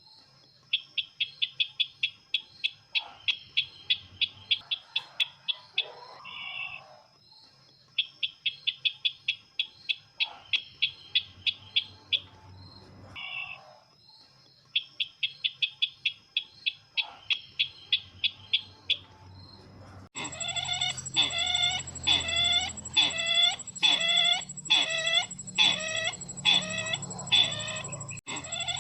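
Bird lure call of the sisintar ladang: rapid trains of high chirping notes, about eight a second, in phrases of three to four seconds with short pauses between them. About two-thirds of the way through, it changes abruptly to louder, slower notes about two a second, over a steady high whine.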